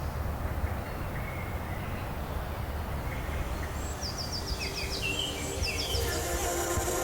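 Outdoor ambience with a steady low rumble, then birds chirping from about four seconds in, in quick runs of short high notes. Music begins to come in near the end.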